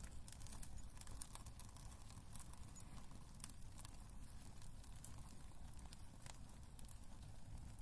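Wood fire crackling in a fireplace: irregular small pops and snaps over a steady low rumble of the burning logs.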